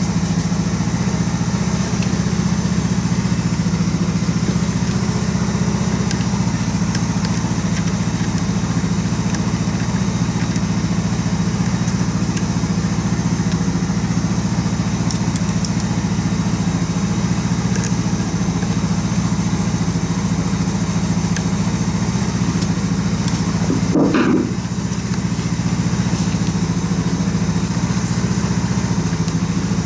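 Single-cylinder four-stroke dirt-bike engine idling steadily as it warms up after its first start of the spring. About 24 seconds in there is a short rise and fall in pitch before the steady idle resumes.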